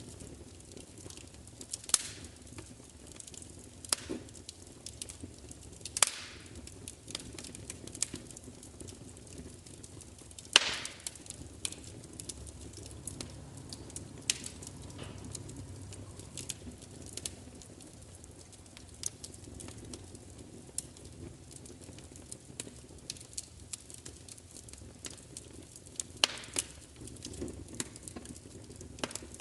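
Wood fire crackling: irregular sharp pops and snaps over a steady low hiss and rumble, the loudest pop about ten seconds in.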